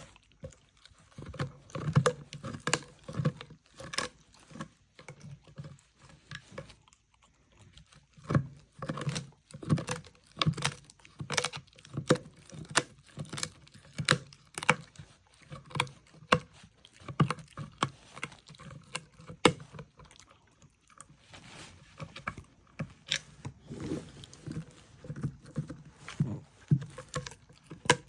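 A dog eating close up: irregular crunching and clicking as it chews, several bites a second at times, with short pauses.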